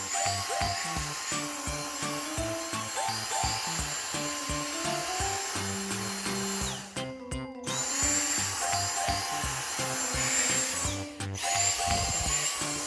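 Vacuum cleaner running with a steady motor whine and rush of air, cutting out briefly twice, over background music with a melody and steady bass beat.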